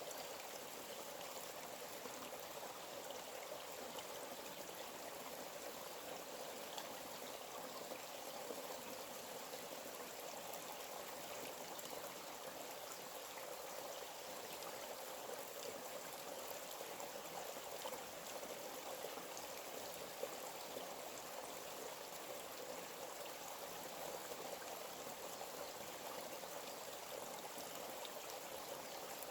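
A forest stream flowing steadily, a continuous babble of running water.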